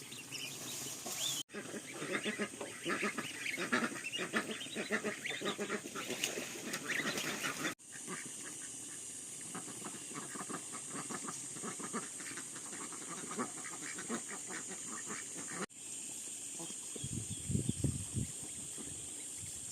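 A flock of domestic waterfowl calling over one another, in several stretches that cut off abruptly. A steady high hiss lies behind the later stretches.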